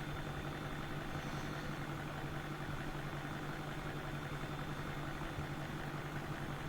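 Steady low hum with no other events: background room tone.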